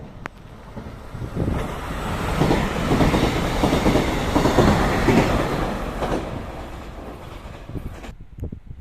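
A train passing close by: its rumble and wheel noise build up, peak about four seconds in, and die away.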